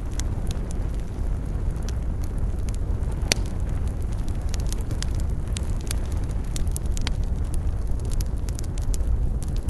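Wood campfire crackling and popping in quick irregular snaps over a steady low rumble, with one sharper pop about three seconds in.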